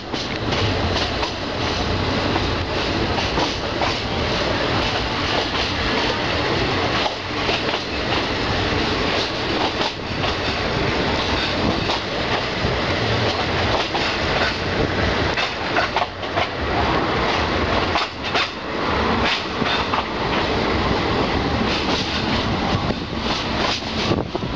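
Passenger train running at speed, heard from on board: a steady rumble and rush of air, broken by irregular clacks of the wheels over the rail joints.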